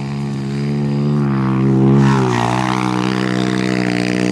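Small pit bike engine running under throttle, growing louder to a peak about two seconds in with a slight drop in pitch, then holding steady as the bike laps the flat track.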